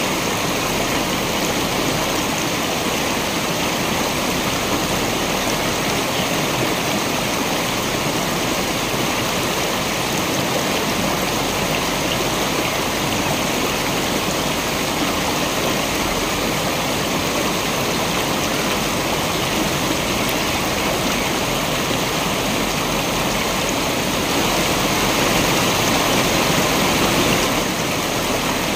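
Waterfall, water falling and rushing steadily, a little louder for a few seconds near the end.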